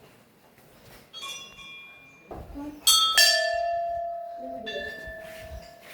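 Metal temple bell struck about four times, the loudest strike about three seconds in, ringing on with a long tone that fades slowly.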